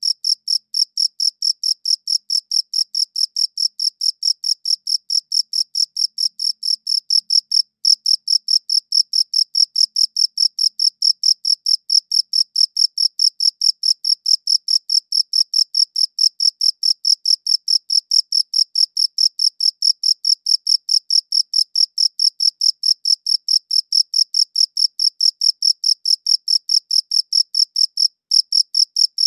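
A cricket chirping in a steady, even rhythm, about three to four high-pitched chirps a second, with a brief break about eight seconds in and another near the end.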